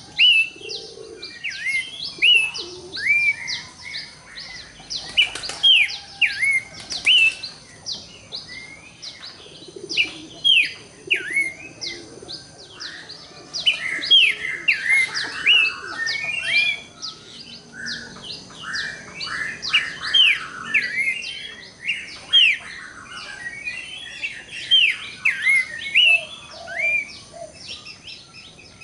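Pelanduk semak (cingcoho) babbler singing: a fast, continuous run of down-slurred whistled notes mixed with busier chattering notes, over a faint steady high whine.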